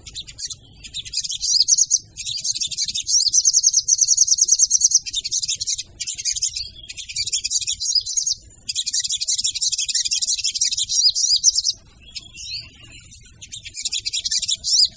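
Sogon birds singing: long runs of fast, high-pitched trilled chirping, broken by short pauses about two, six and nine seconds in, and a longer pause around twelve seconds.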